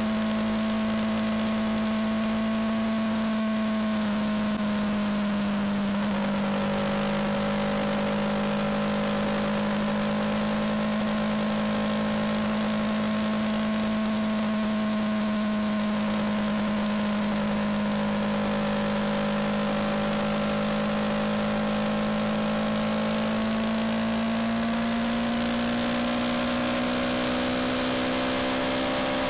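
Yamaha MT-125's single-cylinder four-stroke engine running at a steady cruise over a constant rush of wind noise. The engine note dips a little around four to six seconds in, then climbs gradually near the end as the revs rise.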